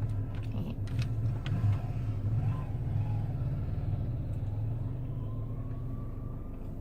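Steady low rumble of a car engine idling, with a few light clicks and taps in the first two seconds.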